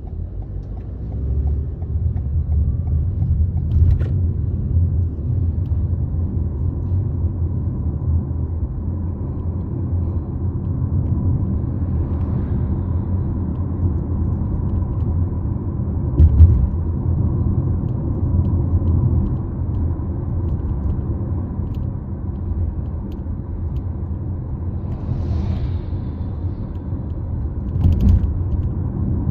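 Road rumble inside a 2019 Toyota RAV4's cabin on a bumpy road, with small clicks and a few louder knocks from the seat belt height adjuster in the pillar, its plastic cover removed: a rattle fault.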